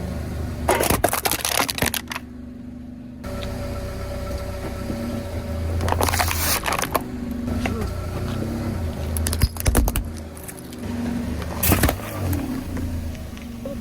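Car engine running slowly with a steady low hum while its tyres roll over brittle objects, giving four spells of crunching and crackling: about a second in, around six seconds, near ten seconds and near twelve seconds.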